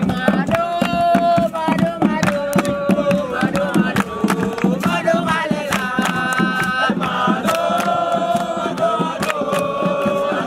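A group of voices chanting and singing together in long held notes, over a dense run of sharp percussive strokes such as hand claps or drum beats.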